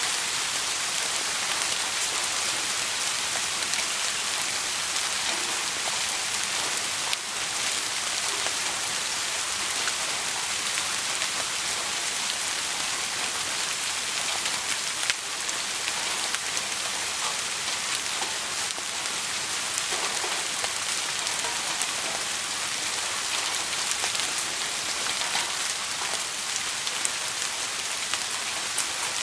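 Steady rain falling, an even hiss with scattered faint clicks of drops and a sharper tick about halfway through.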